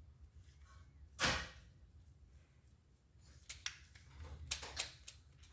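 Small plastic and metal copier drive parts being handled on a workbench: one louder clunk about a second in, then a run of sharp clicks and light knocks near the end.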